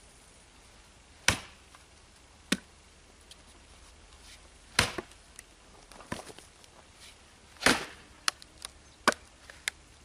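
Splitting axe chopping into a short, dry log round to split it in half: sharp, heavy blows every second or two, with lighter knocks in between.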